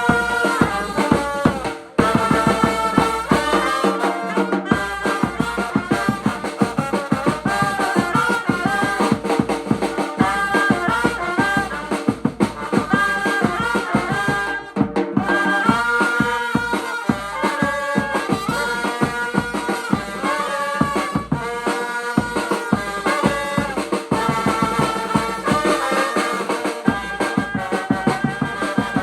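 Vietnamese funeral brass band music: held brass melody lines over a busy drum and rattle beat, breaking off for a moment about two seconds in.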